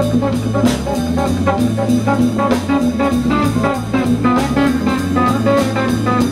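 Live blues band playing between the singer's lines: bass and drums keep a steady beat while a lead instrument plays a fill.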